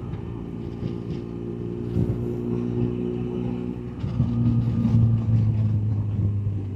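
BMW R1200GS boxer-twin engine running steadily on the move, getting louder about four seconds in.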